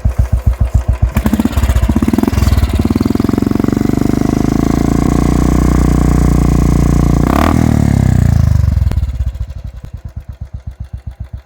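Royal Enfield Thunderbird 350X single-cylinder engine breathing through a Red Rooster Performance aftermarket exhaust, revved from idle. It thumps evenly at idle, takes a couple of short blips of the throttle about a second in, and then holds high revs for several seconds with one quick extra jab. It then drops back to an even idle thump.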